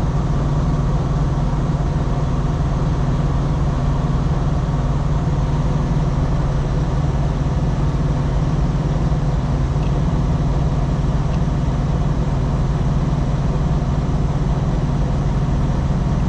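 Heavy truck engine idling: a steady, even low drone.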